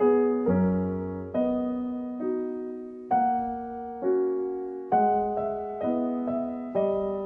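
Piano music: chords and single notes struck at an unhurried pace, each ringing out and fading before the next.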